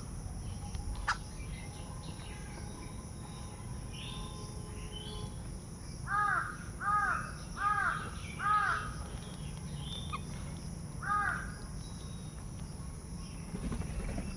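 Crow cawing: four caws in quick succession about six seconds in, then one more a few seconds later, over a steady low background noise.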